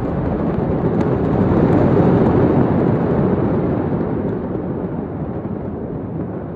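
Deep rolling rumble of a large explosion, swelling about two seconds in and then slowly dying away.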